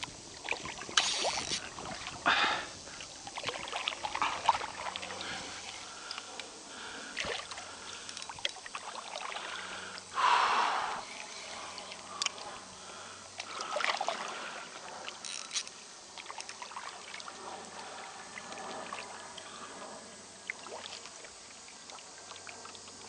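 Water splashing and sloshing around a kayak in short, scattered bursts, mixed with small handling knocks, while a hooked fish is played.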